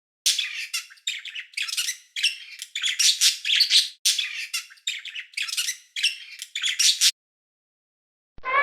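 An animal giving about ten harsh, high-pitched calls in quick succession, stopping about seven seconds in. Just before the end a long, steady, pitched call begins.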